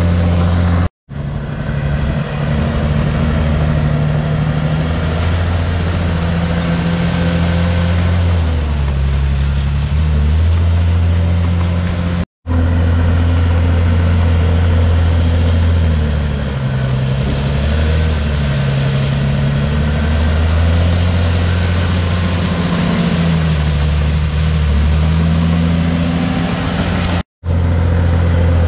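Komatsu D51PX bulldozer's diesel engine working under changing load, its low engine note rising and falling. The sound cuts out abruptly three times.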